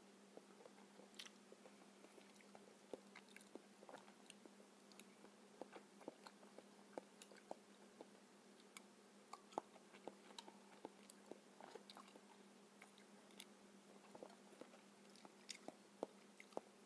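Close-up chewing of soft ripe papaya: many small, irregular mouth clicks, with a metal spoon scooping flesh from the papaya half. A steady low hum runs underneath.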